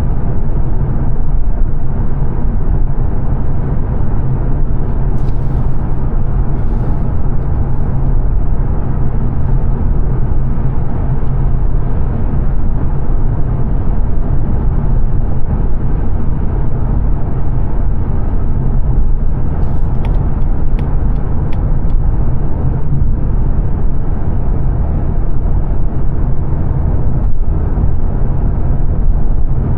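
Steady road and tyre noise with engine drone heard inside the cabin of a 2022 Mazda 3 saloon cruising at motorway speed, with a few faint clicks now and then.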